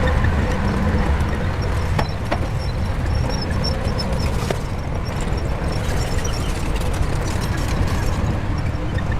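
Shantui bulldozer's diesel engine running steadily under load, with a few sharp metallic clanks about two and four and a half seconds in.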